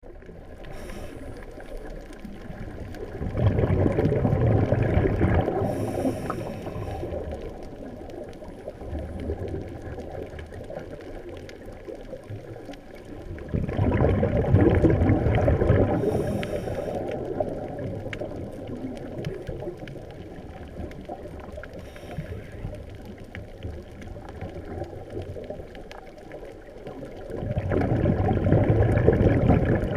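Scuba diver breathing through a regulator, heard underwater: three long exhalations of rumbling bubbles about ten seconds apart, with short faint hisses in between.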